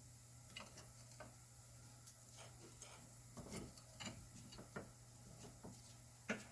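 Faint, scattered clicks and light taps from hand work on a car's front disc brake, about a dozen spread irregularly, over a steady low hum.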